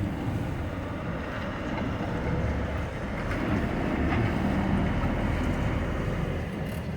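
Heavy vehicle engine running with a steady low rumble, growing louder a few seconds in and easing off near the end.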